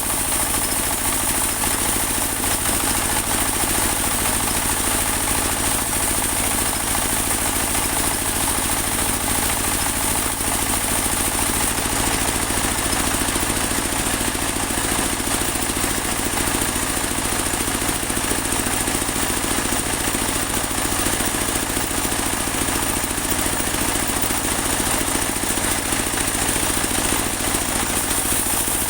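Engine of a portable band sawmill running steadily, with a steady high hiss above it.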